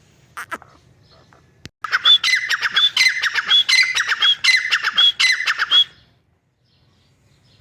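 Grey francolin calling its loud, rapidly repeated phrase, about six phrases in four seconds, each ending on a clear high note. It starts about two seconds in and stops abruptly about two seconds before the end.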